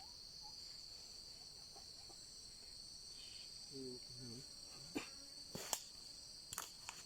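A steady, high-pitched drone of forest insects trilling without a break. A brief low voice murmurs about four seconds in, and a few sharp clicks and knocks come near the end.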